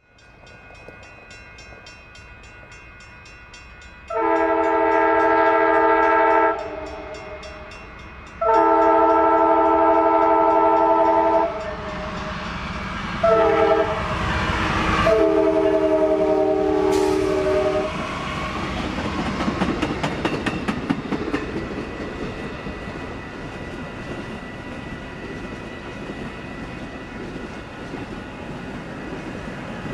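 Locomotive air horn sounding two long blasts, a short one and a final long one, the standard grade-crossing signal, over the rumble of an approaching train. After the horn the train runs past with a steady rumble and wheel clatter.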